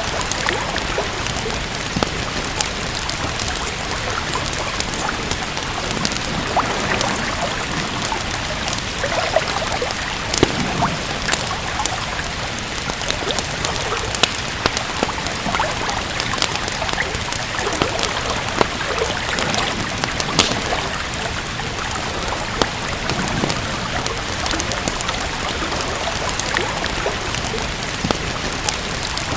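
Steady rain with many small sharp crackles of a wood fire scattered through it.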